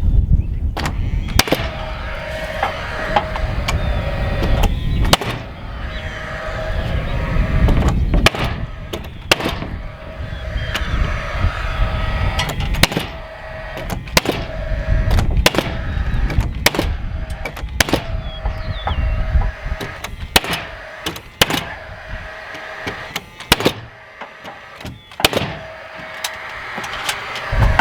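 Nail gun firing a long, irregular series of sharp shots, driving nails into Georgia-Pacific ForceField wall sheathing panels.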